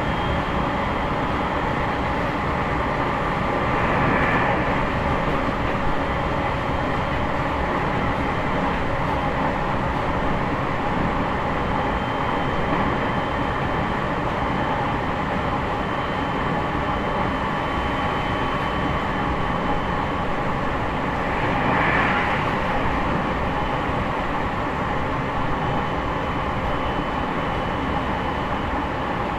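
Running noise inside an E501 series electric train's motor car at speed: a steady rumble of wheels on rail with faint steady whines above it, swelling briefly about four seconds in and again near twenty-two seconds.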